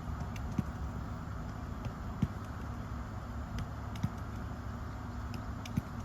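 Steady low outdoor rumble with a few sharp knocks spread a second or two apart, the loudest about two seconds in.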